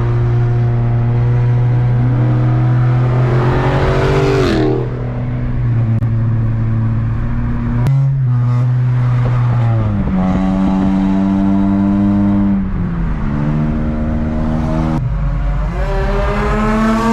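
Honda Civic's four-cylinder engine pulling through the gears: the revs climb for a couple of seconds and drop sharply at a shift about four and a half seconds in, then hold steady, step down twice, and climb again near the end.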